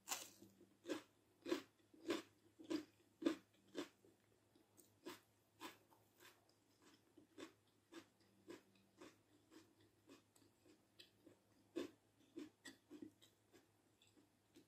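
Crunchy chewing of raw red bell pepper. Loud crunches come about every half second for the first few seconds, then give way to softer, quieter chewing.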